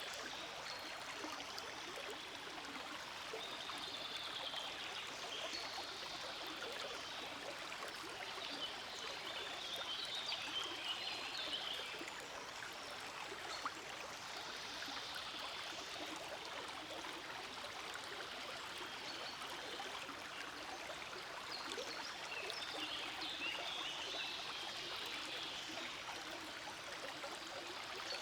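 Shallow forest stream flowing and babbling over rocks, a steady rush of water with a splashy trickle that swells and eases every few seconds.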